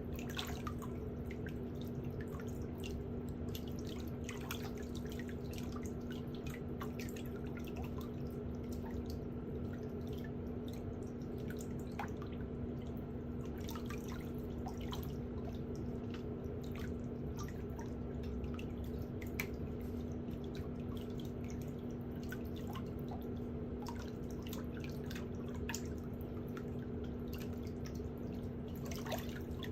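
Scattered small clicks and ticks, irregular and light, over a steady low hum.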